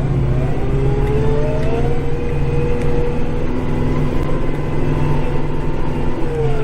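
Compact diesel tractor engine running under load, heard from inside the cab, with a drive whine that rises over the first couple of seconds, holds, and falls away near the end as the tractor pushes snow with its blade.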